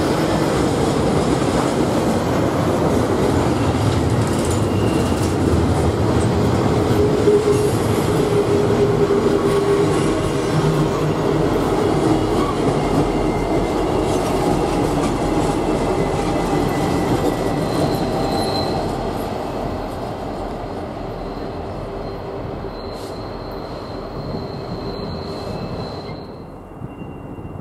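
Freight train rolling past on a tight curve, steel wheels squealing faintly against the rails over a steady rumble of cars; the sound eases off near the end and then drops away suddenly.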